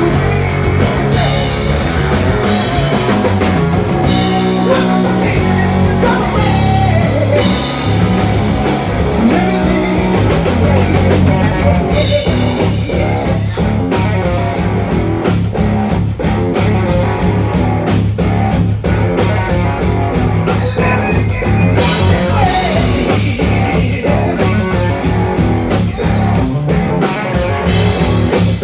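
Live rock band playing with electric guitar, bass and drum kit. About six seconds in a guitar line slides down in pitch, and from about twelve seconds in the drums hit fast and steady.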